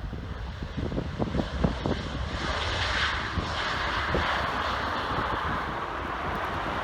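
Jet engines of a landing Ryanair Boeing 737: a broad rushing roar that swells in about two seconds in and then holds steady. Wind buffets the microphone in the first couple of seconds.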